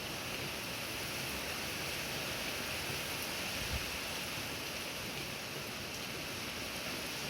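Steady rush of heavy typhoon rain and wind, with one brief low thump a little past the middle.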